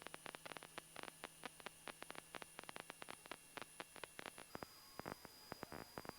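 Near silence with many faint, irregular clicks and a faint steady high tone.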